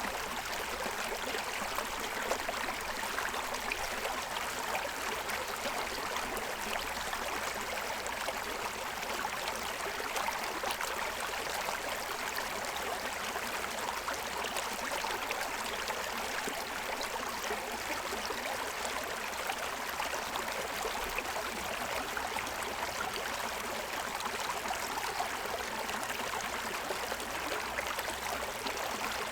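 Shallow stream running and splashing over the stones of its bed, a steady unbroken rush of water.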